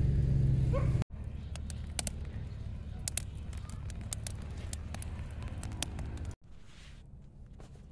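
A steady low hum that cuts off abruptly about a second in, then a wood fire crackling with frequent sharp pops. After another cut near the end the crackling is fainter and sparse.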